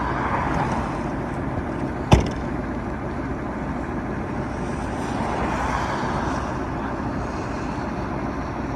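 Vehicle engine running steadily with a low rumble, and one sharp click about two seconds in.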